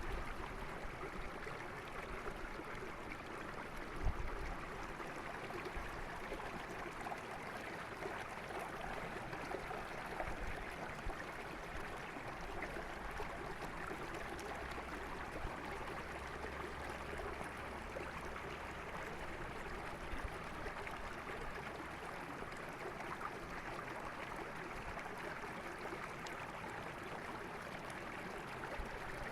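Mountain river flowing over rocks, a steady rushing and burbling of water. A brief low thump comes about four seconds in, and a low rumble sits under the water for several seconds in the middle.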